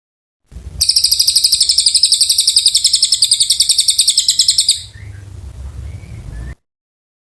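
Cililin bird singing a long, fast, even trill of about a dozen notes a second, lasting about four seconds before it stops abruptly, over a low background rumble.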